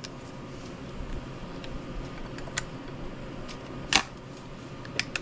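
A few scattered sharp clicks, the loudest about four seconds in, over a faint steady background.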